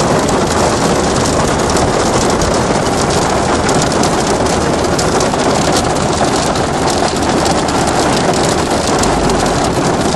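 Hailstorm: a dense, steady clatter of hailstones striking surfaces, without letup.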